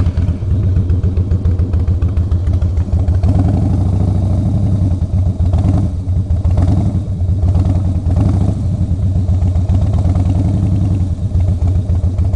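Harley-Davidson V-twin engine running at low speed, the throttle eased on and off so the engine note rises and falls, picking up about three seconds in and again around six to nine seconds.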